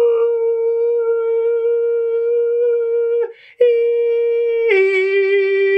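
A single voice holding a long, steady note in a vocal exercise, the note now smoothed out after its initial wobble. After a short breath about three seconds in, a second held note begins, stepping down to a slightly lower pitch near the end.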